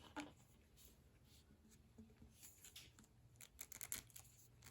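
Near silence, with a few faint clicks and taps of PVC pipe pieces and fittings being handled.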